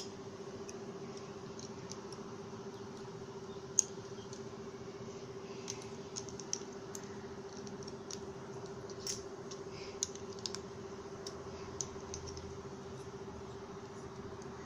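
Light clicks, about a dozen at irregular intervals, the sharpest just under four seconds in, over a steady electrical hum.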